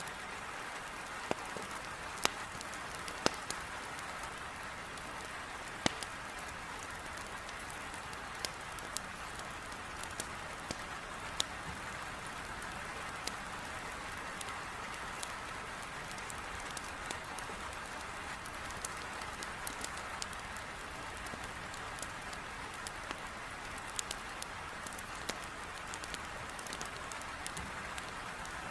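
Heavy rain beating steadily against a window, mixed with wood logs crackling in a fireplace: sharp pops and snaps come at irregular moments, several close together in the first six seconds.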